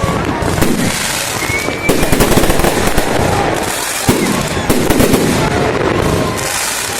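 Fireworks display going off: a dense, continuous crackling with many sharp bangs in quick succession.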